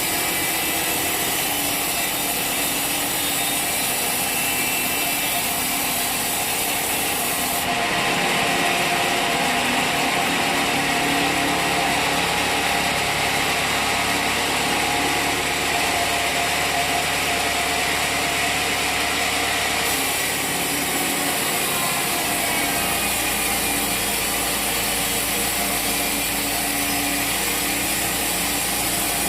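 Sawmill saw cutting through a log, a steady dense rasp of blade in wood. The sound changes abruptly about eight seconds in and changes back at around twenty seconds.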